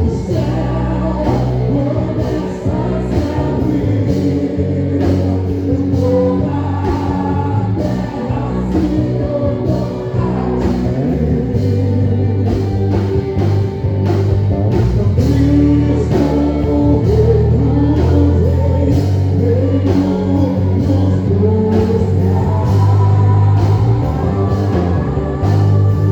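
Gospel worship music played by a band: steady drum beats over a held bass line, with singing on top.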